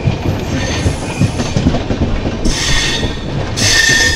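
Passenger train running along the track: a steady rumble with irregular wheel clatter over the rails. Two short spells of high-pitched wheel squeal come in over it, about two-thirds of the way in and near the end.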